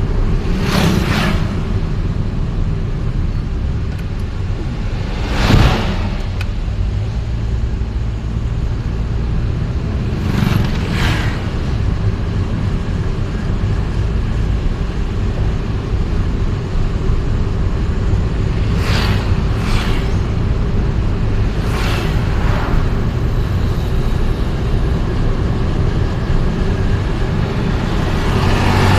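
City traffic heard from a moving vehicle: a steady low road and engine rumble, with other vehicles whooshing past several times, the loudest about five seconds in.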